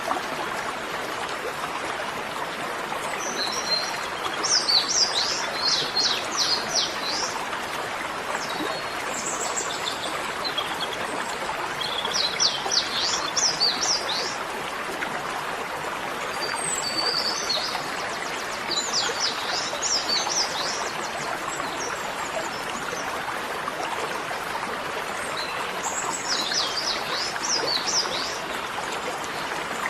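Bird song in four phrases of quick, high chirps, a few seconds each, over a steady rushing hiss like running water.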